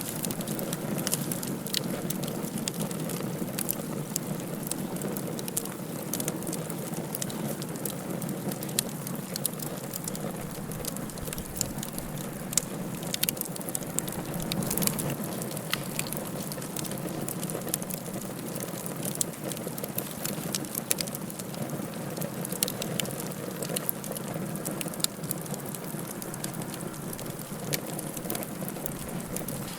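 Wood fire burning in a fireplace, crackling steadily with many scattered sharp pops over a constant low rushing noise.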